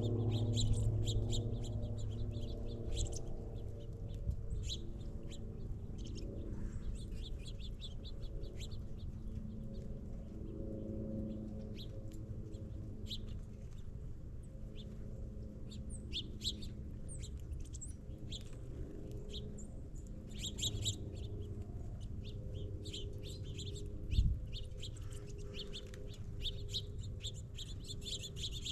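Small songbirds at backyard feeders chirping over and over in short, high calls. A low steady hum runs underneath, louder at first, and there is a single thump late on.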